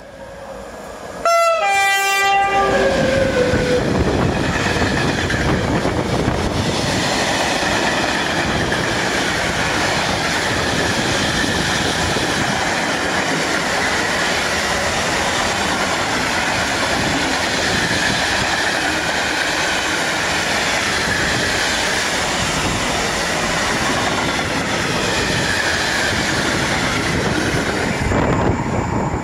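EU07 electric locomotive sounds its horn once, about a second in, for about a second and a half. It then passes at speed hauling a long container freight train, the wheels of the wagons running on the rails in a loud steady rush that drops away near the end.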